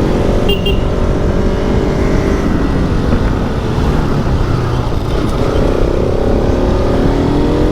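Motorcycle engine running on the move, its note sliding down and then climbing again about five seconds in as the bike slows and picks up, under heavy wind rumble on the camera microphone. A short high beep sounds about half a second in.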